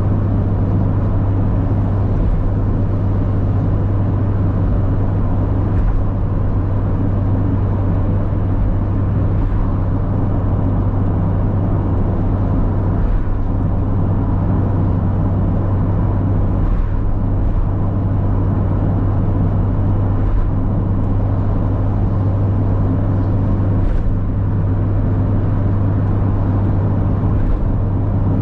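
Mazda MX-5 (NA, 1.8-litre four-cylinder) engine running at a steady cruise, a constant drone that holds one pitch, with road and wind noise underneath.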